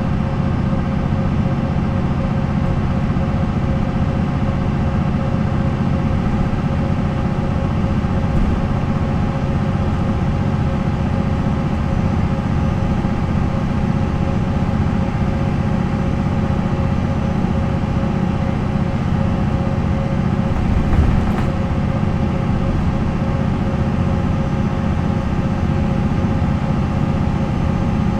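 MAN NL 263 city bus's MAN D28 diesel engine running at a steady, unchanging speed, with a ZF Ecomat automatic gearbox behind it. There is a brief thump about 21 seconds in.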